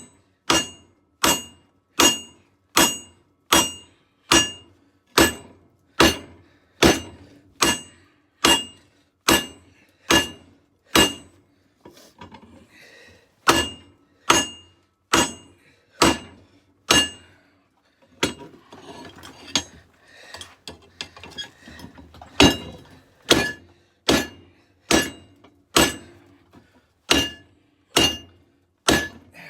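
Hammer blows on hot katana steel over an anvil, a little over one blow a second, each ringing with a clear metallic tone. The hammering stops twice for a few seconds, filled with lighter clinks, then picks up again. The steel is being hammered as it cools, until it loses its glow.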